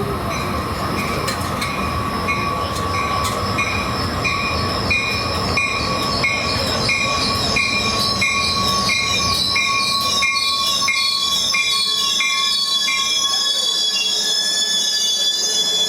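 A train running past on the rails with a wavering high wheel squeal, its rumble fading away about 13 seconds in. A short ringing tone repeats nearly twice a second throughout and stops at about the same time.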